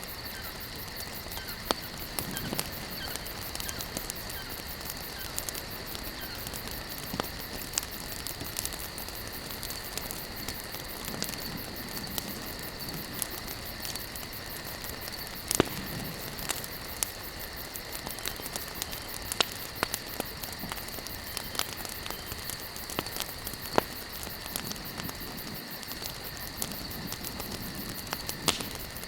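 Wood campfire burning, crackling with a steady hiss and frequent sharp snaps and pops, a few of them louder. A steady high-pitched insect chirring runs underneath.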